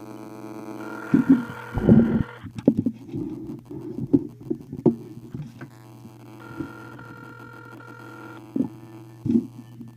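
Telephone ringback tone over the line, sounding twice about six seconds apart, over a steady hum, with a number of knocks and thumps in between.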